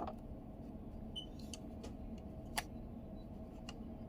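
Scattered small clicks and taps of plastic parts and tools being handled while a car's multimedia control knob is taken apart. One sharper click comes a little past halfway, over a steady low hum.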